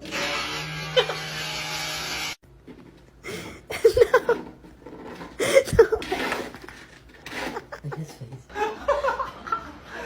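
A steady hissing noise for about two seconds that cuts off abruptly, then a person laughing in repeated short bursts.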